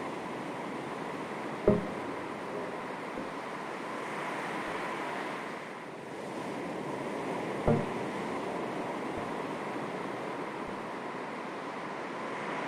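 Calm sea waves lapping on the shore in a steady wash, with light breeze on the microphone. Two short, sharp knocks stand out, about two seconds in and again six seconds later.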